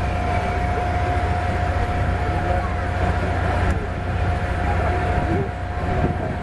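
Jet aircraft engines running: a steady rumble with a steady whining tone.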